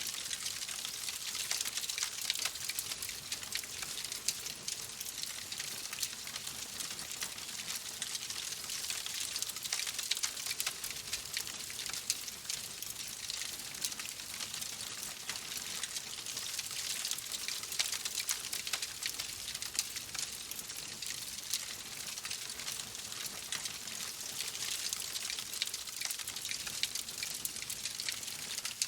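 Wood fire crackling in a fireplace: a steady hiss thick with small, rapid pops and snaps.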